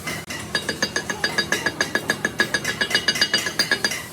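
Rapid, even metal-on-metal tapping, about eight strikes a second and each one ringing briefly, starting about half a second in.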